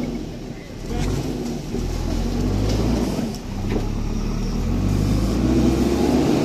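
Heavy machinery's engine running under load, with a pitch that rises near the end as it revs up.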